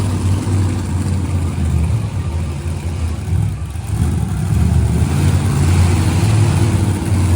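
Monster truck engine running with a deep, steady rumble, getting louder about four seconds in.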